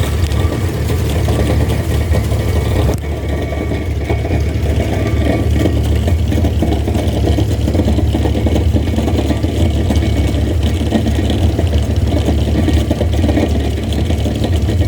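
An engine running steadily at a low, even pitch. The higher hiss drops away suddenly about three seconds in.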